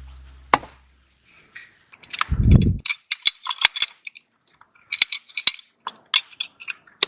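A steady high-pitched chorus of summer insects. Over it are a dull thump about two and a half seconds in, then a run of light clicks and knocks from handling gear.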